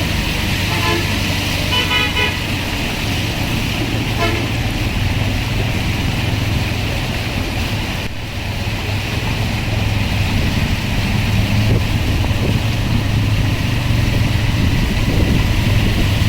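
Road traffic with engines running steadily, and a vehicle horn tooting briefly a couple of times in the first five seconds.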